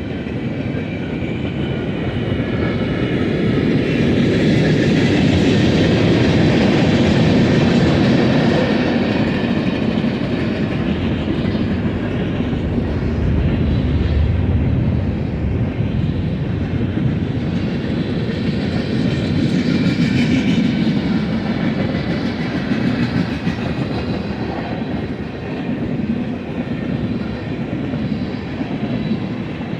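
Freight cars of a passing freight train rolling by, steel wheels clickety-clacking on the rails in a continuous loud rumble that swells and eases as the cars go past.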